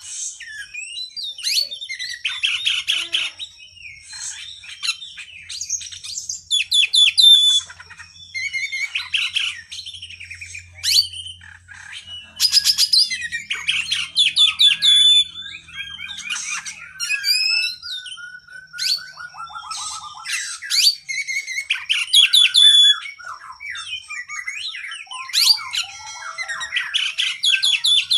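Oriental magpie-robin (kacer) singing a long, varied song of rapid whistled and chattering phrases with short pauses between them, over a faint steady high tone.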